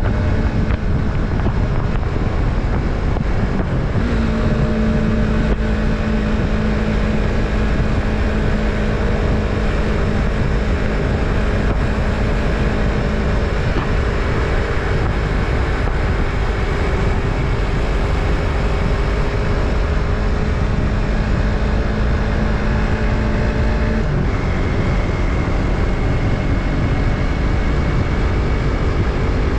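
Yamaha MT-03's parallel-twin engine running at a steady cruising speed, its note shifting slightly about four seconds in and again near the end, with wind rushing over the microphone.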